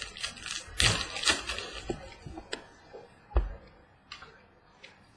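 Trading cards being handled and flipped through: papery rustling and sliding about a second in, with scattered light clicks and a dull knock at about three and a half seconds.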